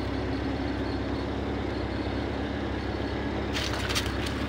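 A motor vehicle engine idling steadily with a low, even hum. A short cluster of sharp clicks comes about three and a half seconds in.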